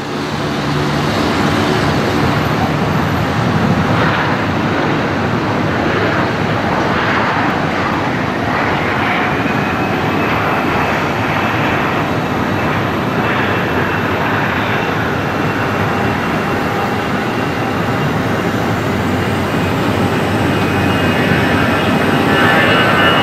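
Airbus A320 jet airliner taking off, its engines running at takeoff power in a steady loud roar. A whine of several high tones comes in near the end as the sound grows louder.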